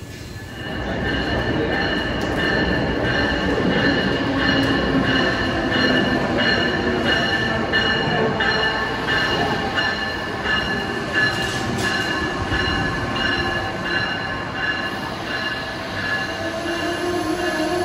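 Amtrak Northeast Regional train, led by an ACS-64 electric locomotive, rolling slowly past the platform. Its wheels give a steady high squeal over a continuous rumble, with a faint regular clicking about twice a second.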